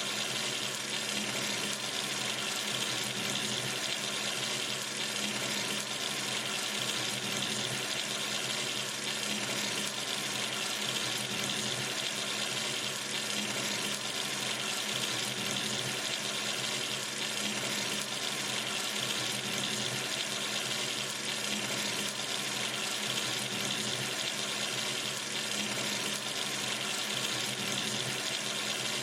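Sink tap running steadily, water pouring into the basin as an even, unbroken rush.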